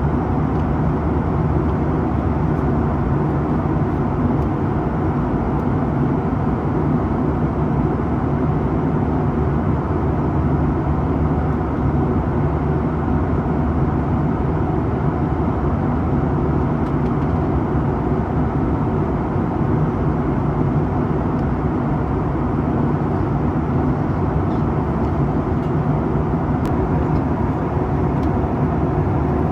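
Cabin noise of a Boeing 737-800 in flight, heard from a window seat beside the engine: a steady drone from its CFM56 turbofan and rushing airflow, weighted to the low end and unchanging.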